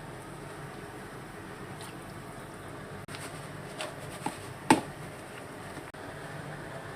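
Low steady background noise with a few light clicks or knocks a little past the middle, the last one sharper and louder.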